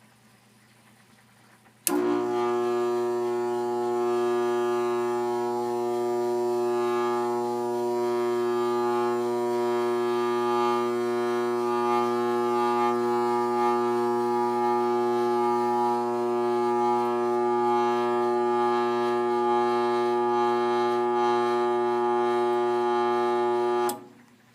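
Loud, steady buzz from a failing furnace motor, starting suddenly about two seconds in and cutting off abruptly shortly before the end. It is the intermittent fault noise that was traced to a bad motor.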